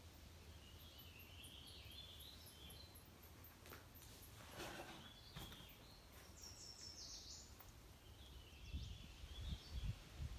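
Near-silent room tone with faint bird chirps now and then, and a low rumble near the end.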